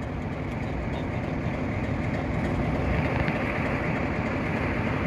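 Class 47 diesel-electric locomotive's Sulzer twelve-cylinder engine working hard as the locomotive pulls away, a dense low-pitched running sound that grows gradually louder.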